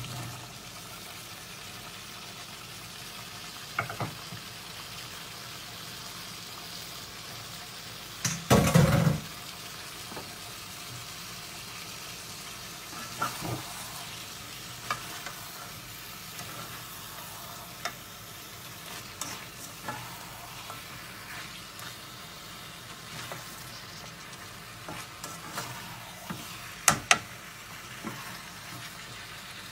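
Chopped green tomatoes and dried fish sizzling as they fry in a metal wok, stirred with a spatula. Scrapes and knocks come now and then, with the loudest clatter about eight or nine seconds in.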